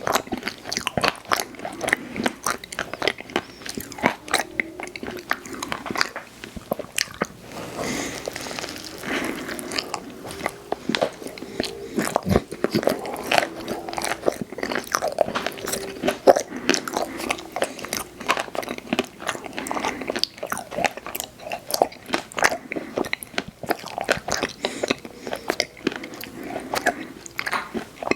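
Close-miked eating of ice cream desserts: steady chewing with many small irregular crunches and wet mouth clicks.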